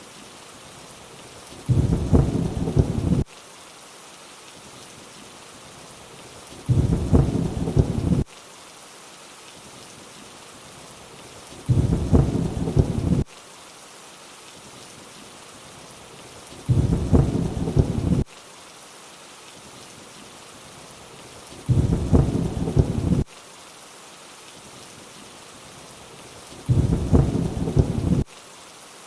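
Steady rain hissing, with a low rumble of thunder that comes in about every five seconds, six times. Each rumble lasts about a second and a half and starts and stops abruptly, like a looped clip.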